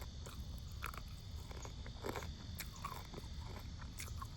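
Soft chewing and wet mouth clicks of someone eating rotisserie chicken close to the microphone, a handful of small clicks spread through a quiet stretch.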